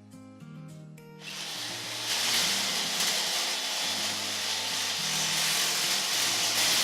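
Electric drill boring a hole through a PC case panel, starting about a second in and running steadily at high speed with a harsh, hissing grind. Background music with a steady bass line plays under it.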